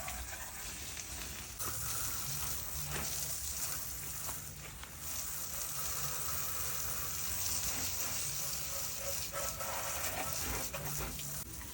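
Water from a garden hose spraying steadily, hissing, as it washes dog droppings off a dirt bike's tyre.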